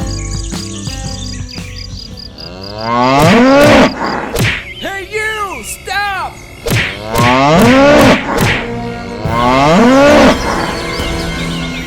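Cattle mooing: three loud, long moos that rise and fall in pitch, about 3, 7 and 10 seconds in, with shorter calls between them.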